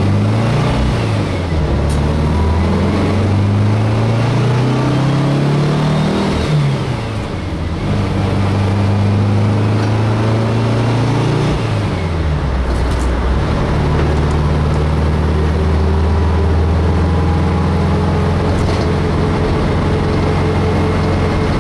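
Air-cooled VW bus flat-four engine heard from inside the cabin, pulling up through the gears with its pitch climbing, dropping at shifts about seven and twelve seconds in, then running steadily at cruise. A faint whine climbs with road speed, which the owner takes for the transmission starting to have main shaft bearing noise.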